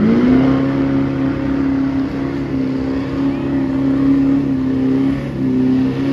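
Diesel truck engine at full throttle under load in a pull: the revs climb in the first half-second, then hold high and steady, dipping briefly about five seconds in.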